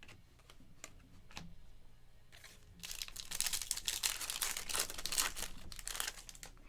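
A few light clicks, then, about three seconds in, a foil trading-card pack wrapper being torn open and crinkled for about three seconds.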